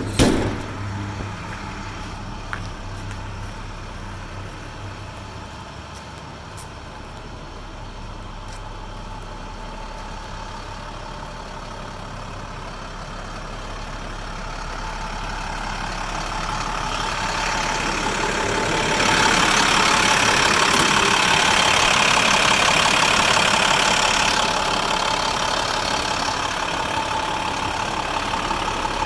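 International DT466 straight-six diesel running steadily, with a sharp knock right at the start. The engine grows louder through the middle, stays at its loudest for about five seconds, then eases back.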